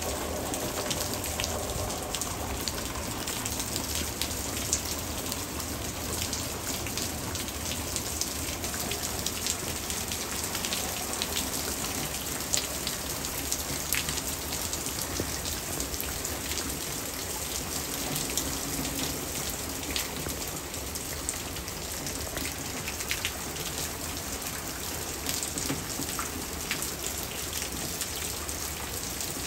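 Hard rain falling steadily, a dense even hiss with many sharp ticks of single drops striking hard surfaces.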